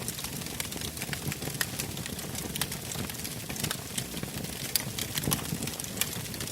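Wood fire burning in a fireplace, crackling with frequent sharp, irregular pops over a low steady rumble of the flames.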